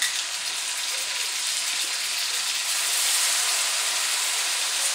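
Seasoned crab legs sizzling steadily in melted butter in a hot skillet. The sizzle swells about three seconds in as soy sauce is poured into the pan.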